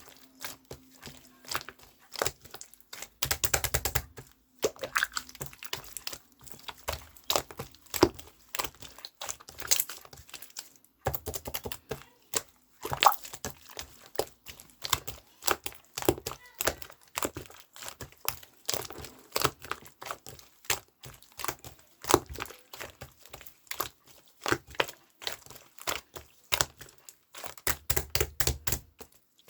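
Irregular close-up clicks, crackles and crinkling, with denser rustling flurries about three seconds in and near the end.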